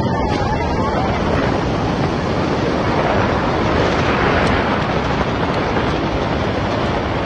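Hurricane-force wind battering the microphone: a loud, steady rushing roar with no let-up.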